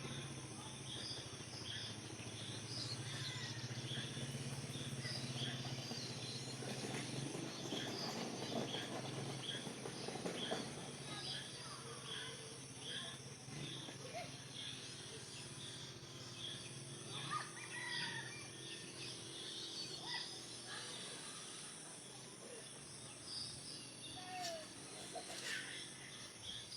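Rural outdoor ambience after rain: birds calling, with a steady run of short high chirps and a few lower sliding whistles in the second half, over a steady low hum.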